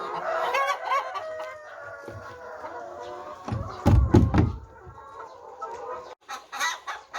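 A flock of chickens clucking and calling, with crowing among them. A loud thump and rustle of handling about four seconds in, and a few sharp clicks near the end.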